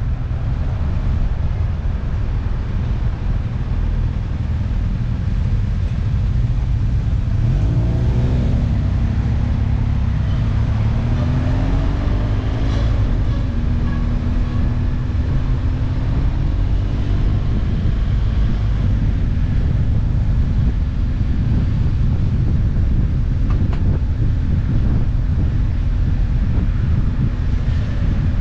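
Steady low wind rumble and road noise from a motorcycle on the move. Partway through, an engine note climbs and then holds steady for several seconds.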